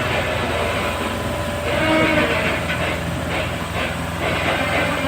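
Heavy diesel engine running steadily with a low hum. A brief rushing, hiss-like burst comes about two seconds in.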